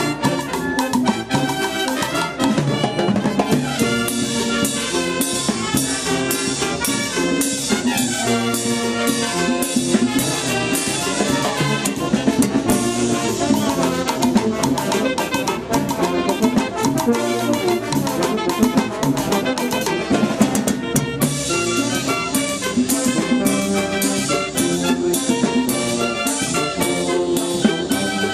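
A live Peruvian banda orquesta playing a salsa-style tropical number: trumpets and other brass carry the melody over a drum kit and percussion keeping a steady, driving beat.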